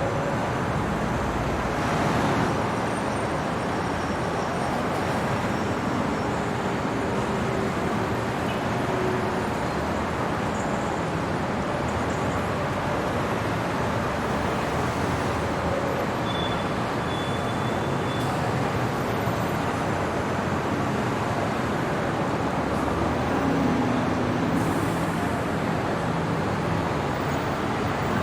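Steady city traffic noise at night, a continuous hum of passing road vehicles with slight swells as vehicles go by.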